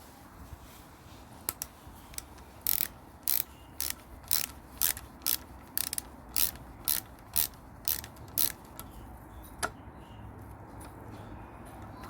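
Restored heavy-duty vice grip (locking pliers) being clamped and released again and again: a run of sharp metallic clicks, about two a second, with a single click before the run and another after it.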